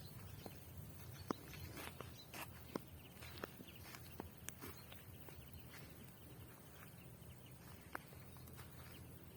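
Faint forest ambience: a low steady rumble with scattered, irregular small clicks and snaps, the clearest about a second in, near three seconds, midway and near the end.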